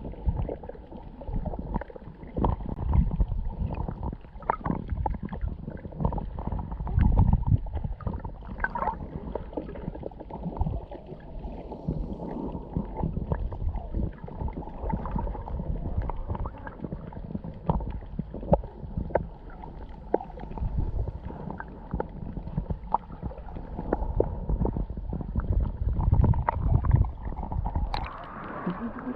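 Muffled underwater sound of seawater moving around a camera held below the surface: a low, uneven rumble with many scattered small clicks and knocks. The sound opens up brighter near the end.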